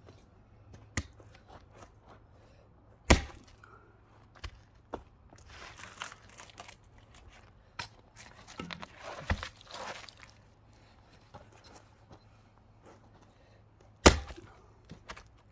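Axe chopping into a wood log to split it: two loud strikes, about three seconds in and near the end, with lighter knocks and the scraping of wood being shifted in between.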